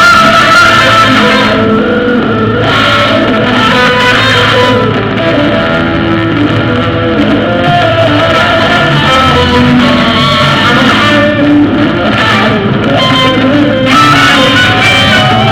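Guitar music with bass, playing steadily and loud.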